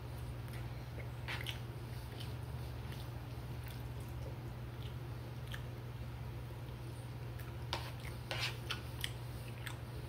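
A person chewing soft food with the mouth close to the microphone, with scattered short mouth clicks, several close together near the end, over a steady low hum.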